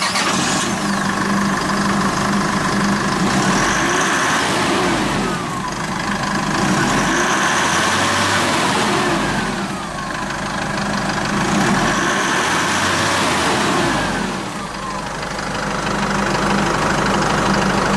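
Isuzu Elf truck's 3-litre intercooled turbodiesel idling and being revved three times, each rev rising and falling back to idle, then settling into a steady idle.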